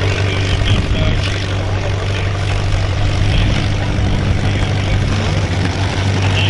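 Tractor engine running steadily under load as it pulls the sled, its pitch rising slightly a little over three seconds in.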